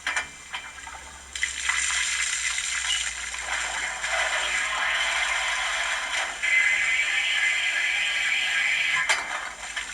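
ESU LokSound V5 sound decoder in a Hornby Coronation Class model locomotive playing its water-fill sound through the model's speaker: water gushing into the tender. The gushing starts about a second in and stops near the end, with a few light clicks around it.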